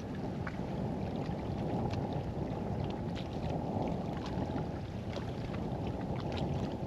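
Steady low rushing noise of wind buffeting the microphone, with scattered faint ticks.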